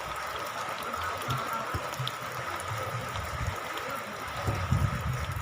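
Steady rain falling, a continuous hiss, with a few low thuds about four and a half seconds in.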